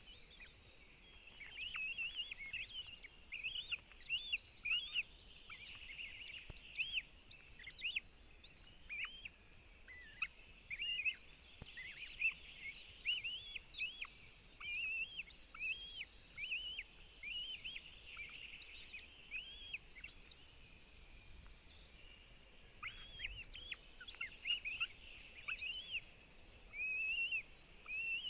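Northern goshawk chicks calling at the nest: a dense run of short, high, rising-and-falling notes, many overlapping, over a faint hiss.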